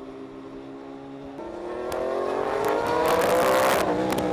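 A racing engine held at steady revs, then accelerating hard from about a second and a half in, its pitch climbing and getting louder, before the pitch drops suddenly near the end.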